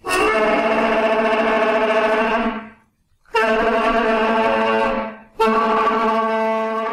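Music: a brass-like instrument plays three long held notes, all at the same pitch, each about two seconds long with short breaks between them.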